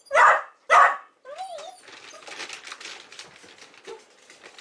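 Miniature dachshund barking twice, loud and sharp, then giving a short whine. After that comes a couple of seconds of quieter, rapid light clicking and rattling.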